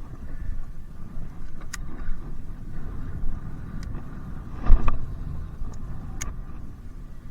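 Strong wind buffeting the microphone as a gusty low rumble, with a few sharp clicks and one louder thump a little past the middle.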